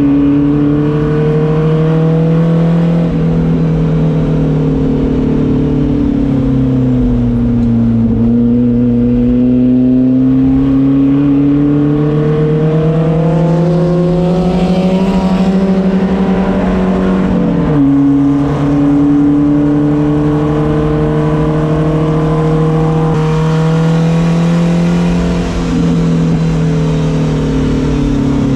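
Volvo 240 race car's engine heard from inside the car on track, its pitch sliding down and climbing again over several seconds as the driver brakes and accelerates through corners. About two-thirds of the way through, the pitch drops suddenly at a gear change, then climbs again and falls away near the end.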